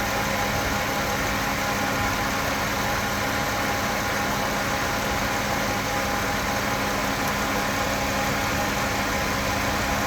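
A 2013 Honda Accord's 3.5-litre V6 engine idling steadily, at an even speed with no revving.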